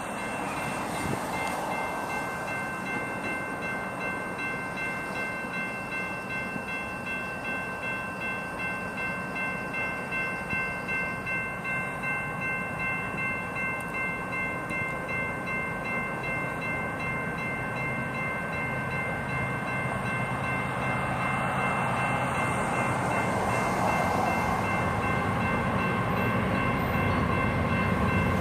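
Railroad crossing bells ringing steadily with an even pulse, while an approaching diesel freight train, led by a GE ES44AC locomotive, rumbles in the background, growing louder toward the end.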